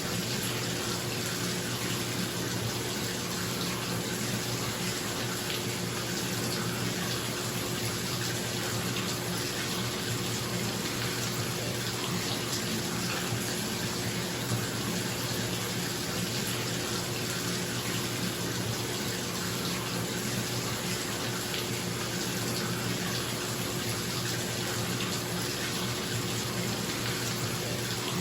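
Water running steadily from a tap into a bathtub, with a bathroom exhaust fan humming steadily underneath.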